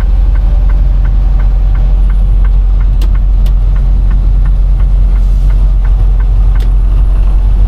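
Semi truck heard from inside the cab while driving: a steady low rumble of engine and road noise. A faint, even ticking runs about three times a second, with a couple of sharp clicks partway through.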